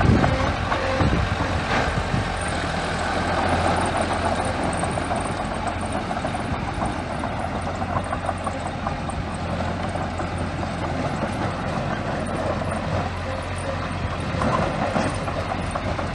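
Small bulldozer's diesel engine running steadily, with scattered clanks and rattles over it.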